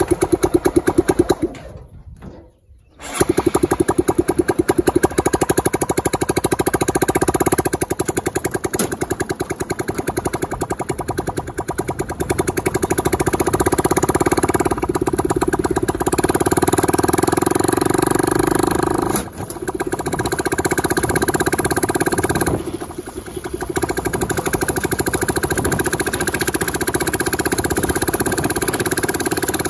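Motorcycle engine of a homemade mini jeep running steadily as the vehicle is driven. The sound drops out almost completely for about a second near the start, and dips briefly twice later on.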